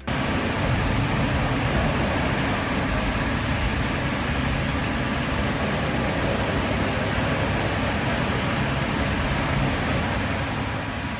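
Heavy log-handling machinery running steadily in a sawmill log yard, a dense mechanical noise strongest in the low end. It starts abruptly and eases off slightly near the end.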